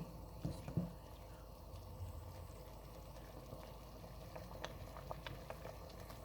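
Pot of chicken corn soup, thickened with cornflour and beaten egg, simmering with a faint steady bubbling. A few light knocks come near the start.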